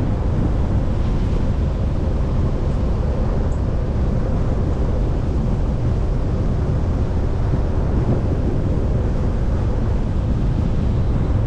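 Steady road noise of a moving vehicle heard from inside the cab: low tyre rumble and engine hum, with a faint steady tone.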